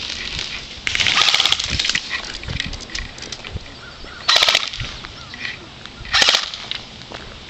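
Airsoft gun firing in rapid bursts: one long burst of about a second, then two short bursts about two seconds apart.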